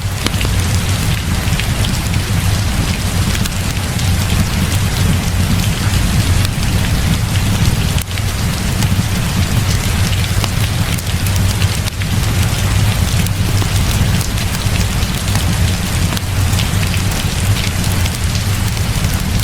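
Heavy rain falling steadily, a dense even hiss with many scattered sharp ticks of drops, over a continuous low rumble.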